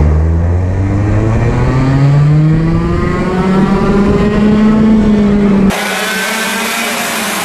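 A 100cc two-stroke racing kart engine accelerating, its pitch rising steadily for about five seconds. It breaks off abruptly into a quieter, steadier engine sound with more hiss.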